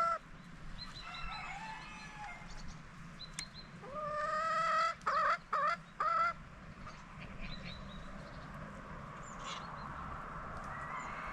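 Chickens calling: one long drawn-out call about four seconds in, then three short sharp calls in quick succession. Faint high chirps come and go throughout.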